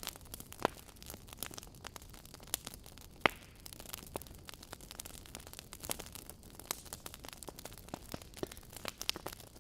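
Wood fire crackling in a fireplace: irregular sharp pops and snaps over a faint steady hiss, with one louder pop about three seconds in.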